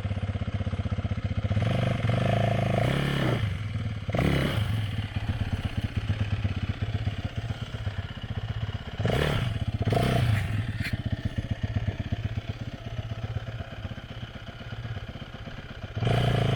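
Dirt bike engine running at a low, steady idle, with a few short throttle blips while the bike is manoeuvred to turn around on a narrow trail.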